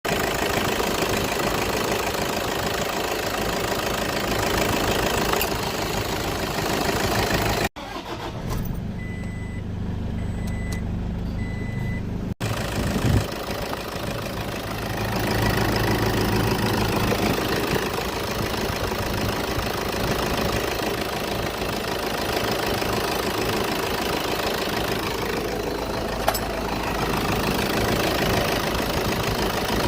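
Car engine idling steadily. The sound changes abruptly twice, and between the changes there is a quieter low hum with a high beep repeating about once a second.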